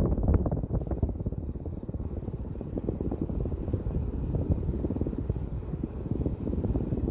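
Casablanca Meridien ceiling fan running on speed 6, a steady low rush of moving air with a fast flutter.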